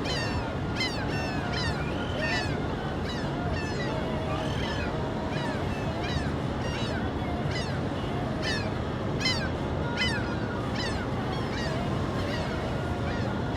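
A flock of seagulls calling continuously, many short squawking and falling cries overlapping one another, over a steady low rushing noise.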